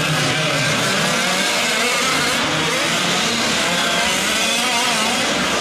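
Small two-stroke engines of several 1/5-scale gas RC trucks racing together, their overlapping buzzing pitches rising and falling as they rev and back off around the track.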